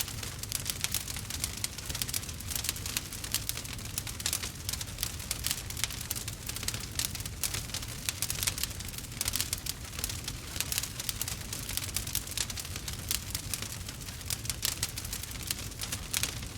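Burning wood fire crackling and popping, a dense, irregular run of small snaps over a low steady rumble.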